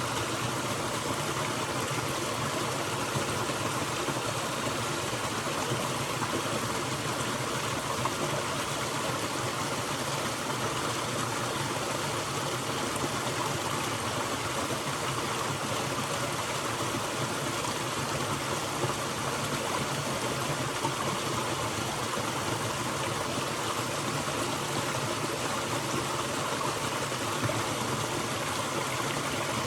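A forest stream flowing over rocks with a steady rush and babble, unchanging throughout.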